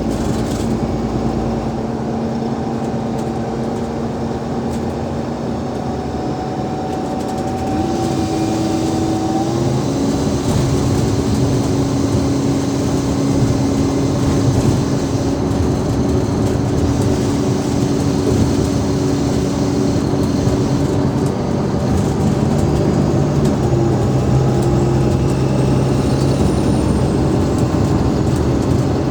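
Alexander Dennis Enviro500 MMC bus driving, its Cummins ISL8.9 diesel and ZF Ecolife six-speed automatic gearbox running with steady whining tones. The tones step up in pitch and the sound grows louder about 8 to 10 seconds in.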